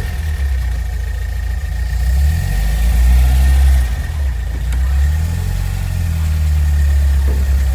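A 1962 Volvo Amazon's rebuilt B20 four-cylinder engine, on twin SU carburettors, pulling the car away, heard from inside the cabin. The engine note builds, drops off sharply about four seconds in, then builds again, with a thin steady high whine above it.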